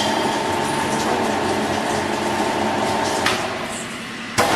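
Electric rebar machine running with a steady whine and rumble; the rumble eases off about three seconds in, and a sharp metal clank comes near the end.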